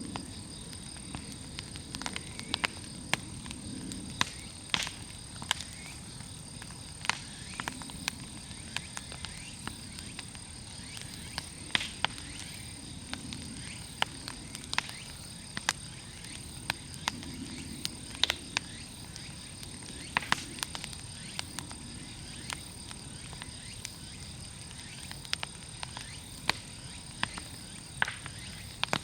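Large wood bonfire crackling, with irregular sharp pops from the burning logs over a low rumble of flame. A steady high insect drone runs underneath.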